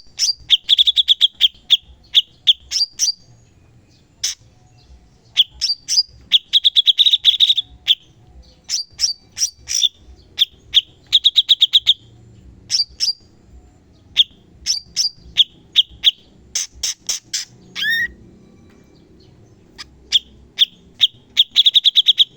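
Cucak cungkok calling in rapid-fire bursts of short, sharp chirps: fast runs of notes, roughly ten a second, broken by brief pauses.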